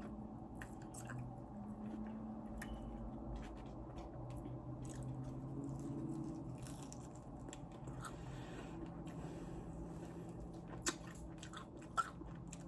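A person biting and chewing fried chicken wings, with crunching and many small mouth clicks, and two sharper clicks near the end.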